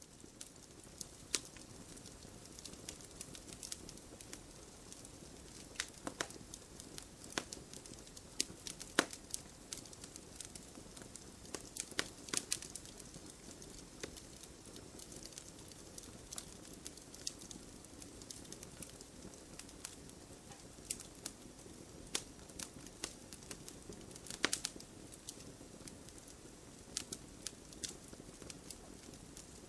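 Wood campfire burning, with irregular crackles and sharp pops over a steady soft hiss of flame; a few pops stand out louder than the rest.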